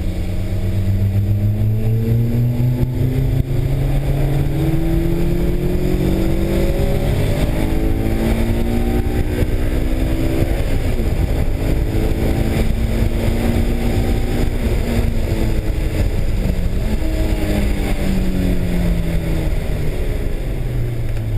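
Honda S2000's four-cylinder engine heard from inside the cabin on track, its pitch rising and falling several times as the car accelerates and the throttle is lifted for corners.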